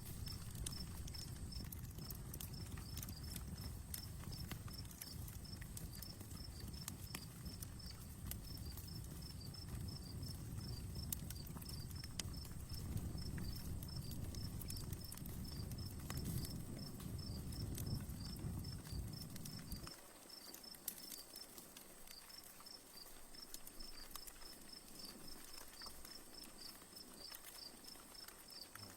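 Outdoor wood fire crackling, with scattered sharp pops. An insect chirps in a high, evenly repeating pulse throughout, and a low rumble under the fire stops abruptly about two-thirds of the way through.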